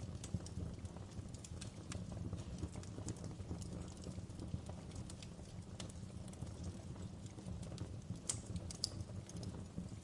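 Wood fire crackling in a fireplace: scattered small pops and snaps over a steady low rumble of the flames, with two sharper pops near the end.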